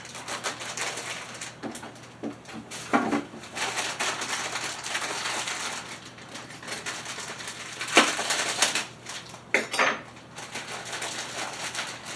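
Dry boxed stuffing mix being emptied from its packets into a mixing bowl: a steady rustling and crinkling, with a few sharp knocks and clatters of the packets and dishes, the loudest about eight seconds in.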